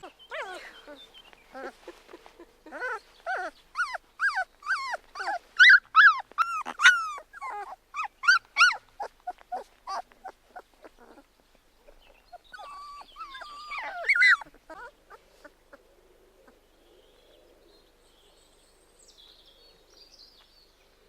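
Three-week-old Labrador retriever puppies whining and squealing: a rapid string of short, high, bending cries for about ten seconds, another flurry a few seconds later, then only faint shuffling.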